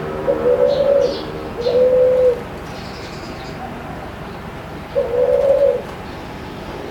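Tledekan gunung singing: three low, steady, flute-like whistles, each held under a second, two close together at the start and a third after a pause of nearly three seconds, with faint high chirps from other birds behind.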